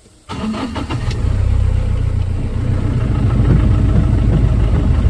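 A vehicle engine starting: a few quick cranking strokes, catching within about a second, then running steadily.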